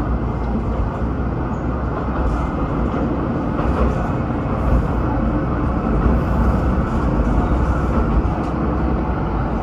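Diesel railcar running along the line, a steady, even low rumble that holds level without change.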